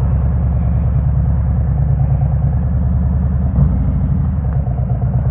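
Harley-Davidson Road King's V-twin engine running steadily as the bike is ridden down the road.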